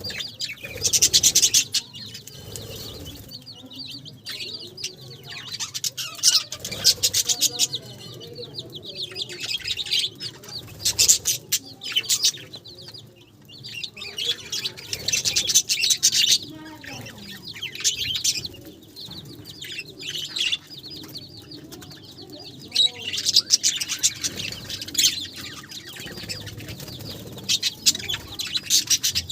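Budgerigars chirping and chattering in repeated bursts of fast, high-pitched warbling every few seconds.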